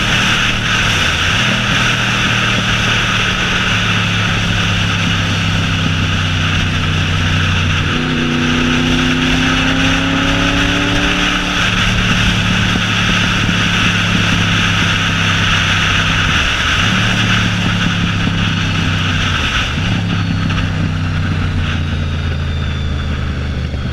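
Honda VFR 750F's V4 engine running without a muffler at steady, moderate revs, its pitch dipping briefly and recovering three times as gears change. Wind hiss on the microphone sits over it and eases off near the end, and a second tone rises slowly in pitch for a few seconds about a third of the way in.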